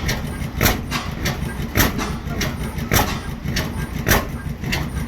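Ajax Ball half-breed oilfield hit-and-miss engine running slowly, with a heavy beat a little more than once a second and a lighter click between each pair of beats, over a steady low rumble.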